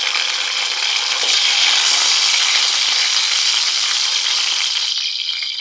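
Two slit green chillies and ginger-garlic paste sizzling in hot oil for a tadka: a steady frying hiss that eases slightly near the end.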